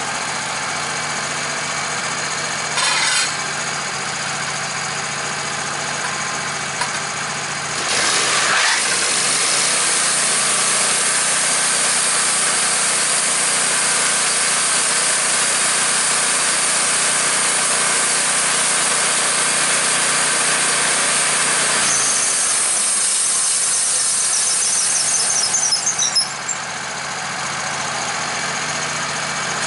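Gas-engine saw idling, then working under load through a log from about 8 seconds in, with a high whine from the cut. Near the end the cut finishes and the engine drops back to idle.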